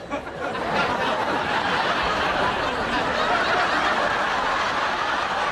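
Studio audience laughing, swelling up about a second in and holding steady.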